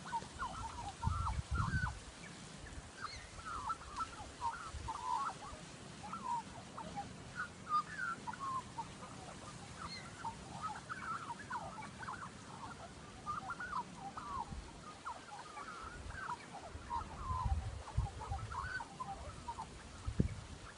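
Australian magpie singing a long run of short, quickly gliding, warbling notes that sound strange and computer-like.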